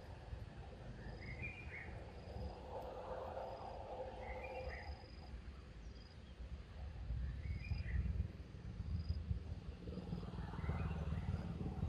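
Outdoor forest ambience: a bird repeats a short chirpy call about every three seconds, with faint high thin notes between. A low rumble underneath swells louder near the end.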